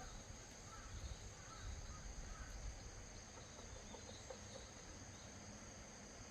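Quiet outdoor ambience: a steady high-pitched whine with a faint low rumble, and a few soft chirps in the first couple of seconds.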